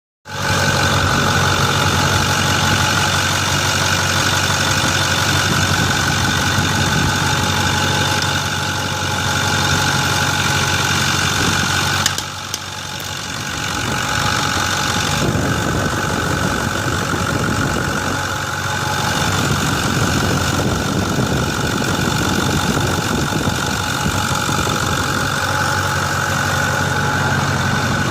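Ford 6.4L Power Stroke V8 diesel with a single turbo running at idle: a steady diesel clatter with a high whine over it, dipping briefly about twelve seconds in.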